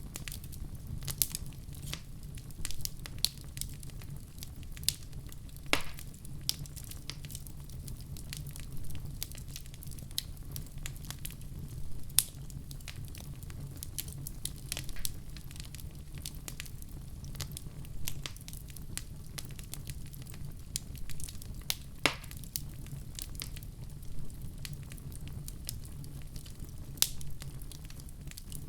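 Wood fire burning with a steady low rumble and irregular crackles and pops, a few sharper pops standing out.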